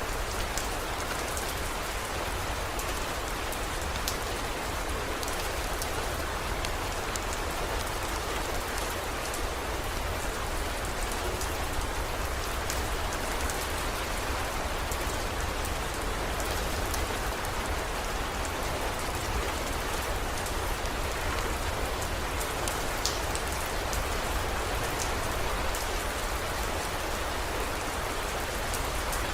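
Steady heavy rain falling, with scattered drop ticks and a low rumble underneath.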